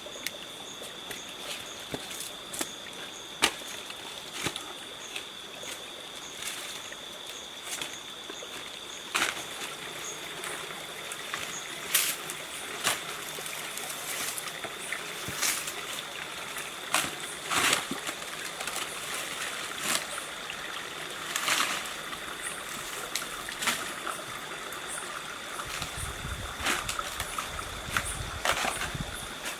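Steps splashing through a shallow, gently flowing stream, with a steady high-pitched insect trill throughout and scattered sharp clicks of footfalls on stones and wet ground.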